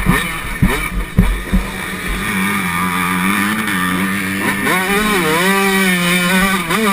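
Yamaha YZ125 two-stroke single-cylinder motocross engine racing on the track, its revs swinging up and down with several sharp knocks in the first two seconds. After that it holds a fairly steady high rev, then climbs and drops again about two-thirds in.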